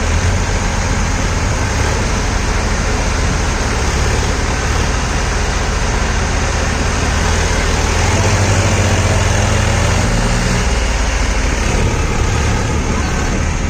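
Massey Ferguson 7250 DI tractor's three-cylinder diesel engine running steadily. About eight seconds in it revs higher for a couple of seconds, then drops back near the end.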